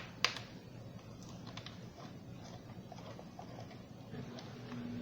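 Light clicks and taps of a screwdriver on a Roomba's hard plastic wheel module as its screws are worked out, with one sharper click just after the start. A faint steady hum comes in near the end.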